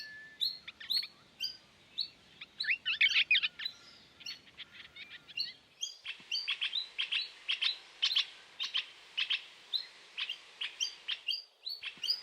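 Pale-headed rosellas chirping, a run of short high calls repeated in quick succession, coming more steadily from about halfway through.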